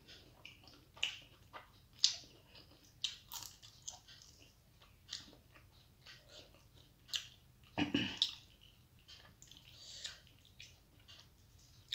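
Close-up chewing and lip-smacking on a mouthful of rice and dal: irregular short wet clicks and smacks, with one louder smack about eight seconds in. Between mouthfuls, fingers squish rice into the dal on the plate.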